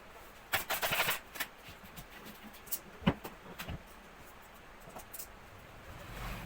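Workshop handling noises: a cluster of rustling, scraping strokes about half a second in, a single sharp knock about three seconds in, then a few light clicks.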